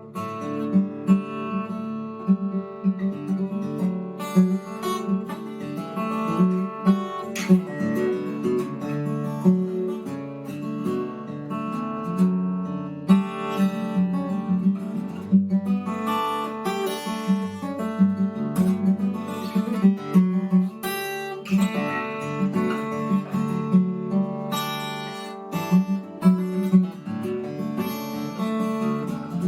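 Seagull S6 steel-string acoustic guitar in DADGAD tuning, played solo in an improvisation: picked notes and strums over ringing open strings, with frequent sharp attacks.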